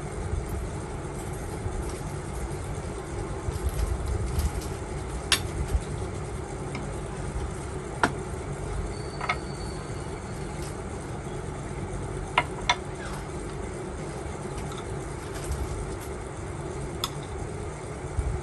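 Steady low rumble of an idling engine, with about six sharp clicks scattered through it and a brief high tone just before the middle.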